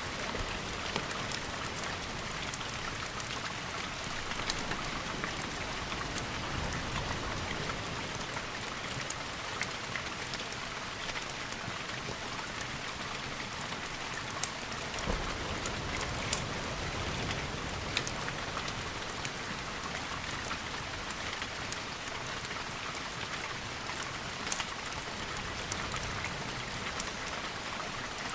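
Steady heavy rain, with scattered sharp drop ticks throughout and a low rumble swelling about halfway through.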